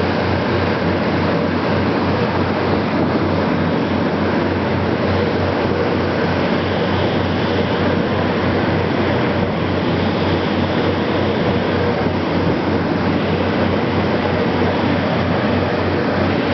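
Passenger ferry's engines running steadily with a low, even throb, over a constant rush of water and wind as the boat gets under way.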